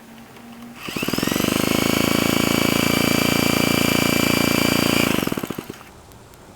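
Clinton 1.5 hp single-cylinder engine on a Bready walk-behind tractor catches about a second in, runs steadily for about four seconds, then sputters and dies. The owner puts the stalling down to a bad spark plug.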